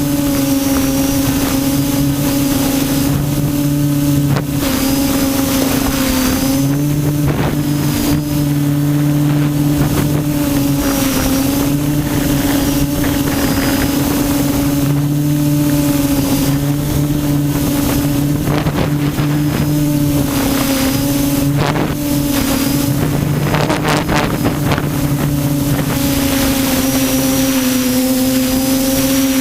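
QAV400 quadcopter's motors and propellers buzzing steadily in flight, the pitch wavering slightly as the throttle shifts, with a lower hum coming and going. Wind rushes over the microphone.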